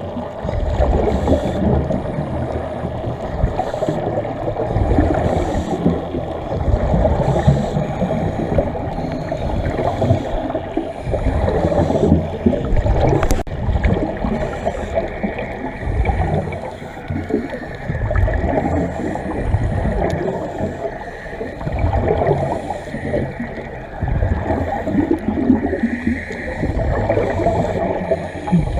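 Muffled underwater sound of scuba divers' bubbles gurgling and rushing up from their regulators, swelling and fading every few seconds with the breaths.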